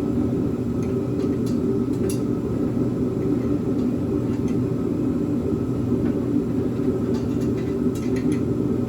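A steady low drone, like a fan or machine running in the background, with a few light metal clicks from hand tools on the header bolts.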